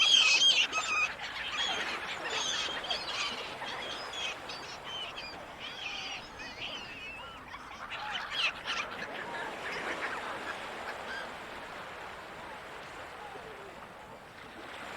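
Gulls calling: a dense burst of cries at the start that thins out over the first several seconds, a few more calls around eight to ten seconds in, then only a steady background hiss near the end.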